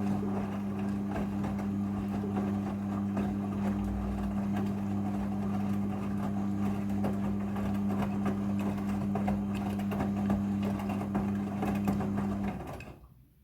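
Midea front-loading washing machine running on its rinse cycle: a steady motor hum over a rushing, watery noise. It stops about twelve and a half seconds in and fades away.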